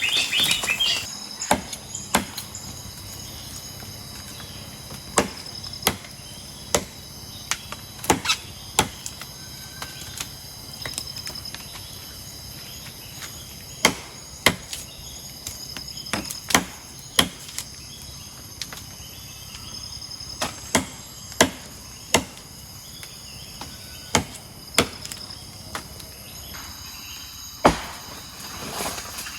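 Irregular sharp knocks or snaps, a dozen or more spaced one to two seconds apart, over a steady high-pitched insect drone.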